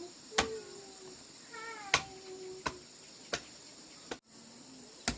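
A cat meowing twice, two long drawn-out calls in the first half. Sharp knocks about every second are louder than the meows.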